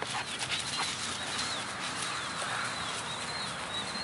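A small bird chirping over and over, short high falling notes two or three a second, over a steady outdoor hiss. A few soft clicks sound in the first second.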